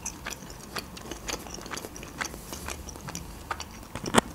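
Close-miked chewing of a bite of salami with the mouth closed: soft wet mouth smacks and small clicks, with one sharper click a little after four seconds in.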